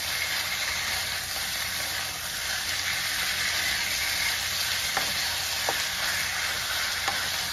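Thinly sliced ruffed grouse and vegetables sizzling steadily in hot oil in a frying pan over high heat, stirred with a wooden spatula, with a couple of faint clicks about five seconds in.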